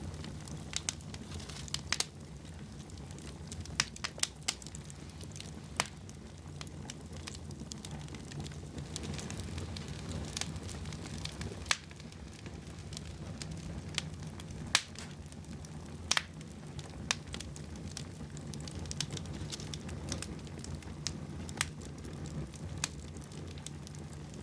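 Wood fire in a fireplace crackling, with irregular sharp pops, a few louder than the rest, over a steady low rumble of the burning fire.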